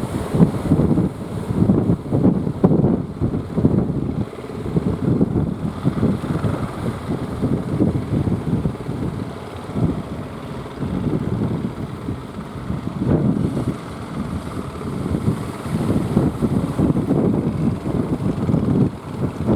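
Strong wind buffeting the microphone in irregular gusts: a heavy, uneven low rumble that rises and falls throughout.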